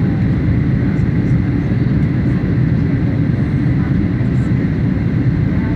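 Boeing 737 cabin noise: a loud, steady rumble of the jet engines and airflow heard from inside the cabin.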